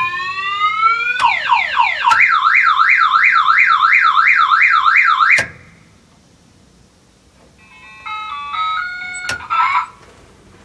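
Novelty multi-sound truck horn running through its effects. A rising wail and quick falling sweeps lead into a loud siren warbling about four times a second, which cuts off suddenly. After a pause of about two seconds it starts a short stepped tune.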